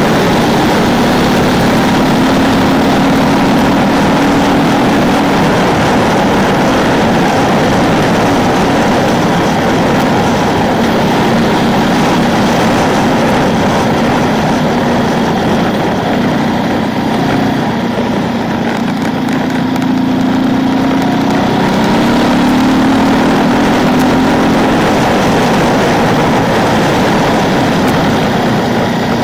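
Ducati 999's L-twin engine pulling on the road, with wind rush over it. The engine note eases off briefly a bit past halfway, then climbs again.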